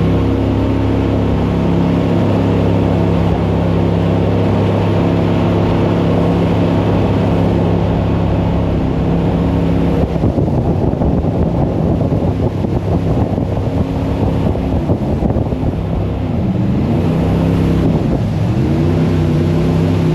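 Jet boat engine running hard at speed, with wind buffeting the microphone and water rushing past. In the second half the engine note drops and climbs again several times as the throttle is eased and opened.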